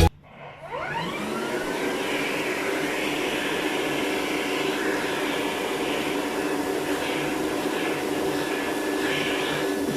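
Vacuum cleaner switched on, its motor spinning up in a rising whine over about the first second, then running steadily while used to vacuum a dog's fur.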